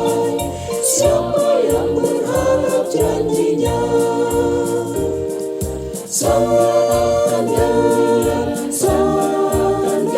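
Mixed church choir singing a hymn in sustained chords, with a line of low accompanying notes underneath.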